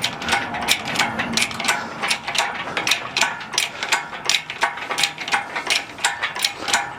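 Hand-pumped hydraulic lift being worked steadily, its pump handle and mechanism clicking and clanking in a quick even rhythm of roughly three strokes a second as the load goes up slowly.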